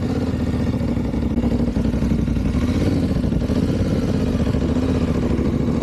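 Motorcycle engine running steadily at a low, even pitch.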